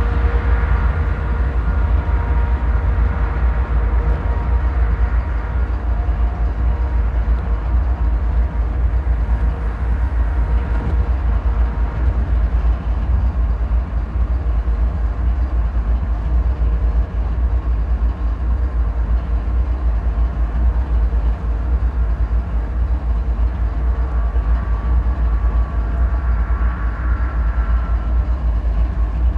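Steady low rumble of a CSX coal train and its diesel locomotive, with a few faint steady tones above the rumble.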